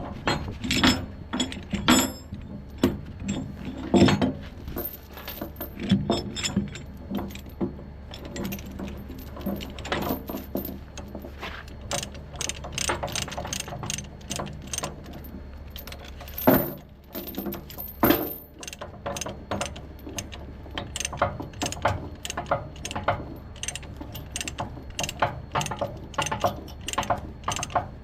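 Steel tie-down chain clinking and rattling as it is hooked and pulled through, with the repeated clicking of a chain binder being ratcheted tight. A steady low hum runs underneath.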